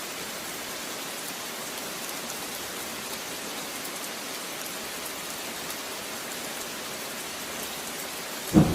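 Steady rain falling and pattering on surfaces. A sudden loud clap of thunder breaks in just before the end.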